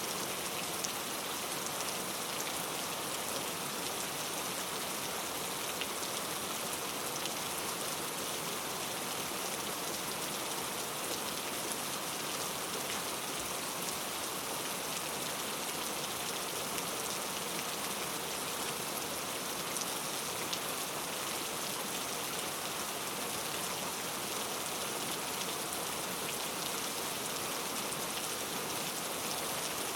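Steady rain falling in a forest, a dense even hiss with scattered individual drops pattering on leaves.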